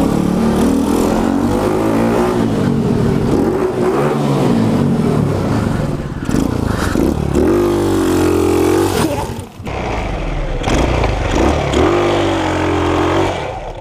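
A pit bike's small engine running while being ridden. The revs rise and fall with the throttle, with a couple of sharp rev-ups and a brief drop as the throttle is closed about halfway through.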